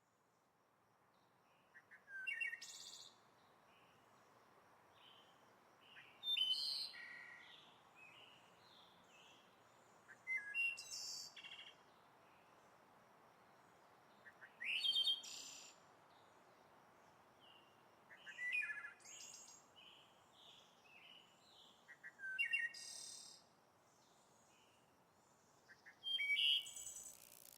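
A songbird singing, repeating the same short phrase about every four seconds, with quieter chirps in between and a faint steady background hiss.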